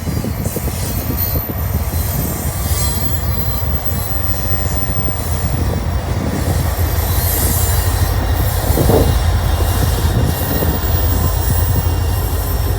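Florida East Coast Railway freight train rolling past close by, a steady heavy rumble of railcars on the track, with higher hissing and screeching sounds rising about three seconds and seven to eight seconds in.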